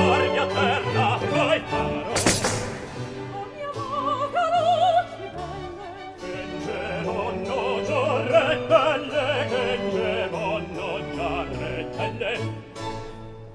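Italian operatic song: a singer with wide vibrato over orchestral accompaniment. A sharp crash-like hit comes about two seconds in.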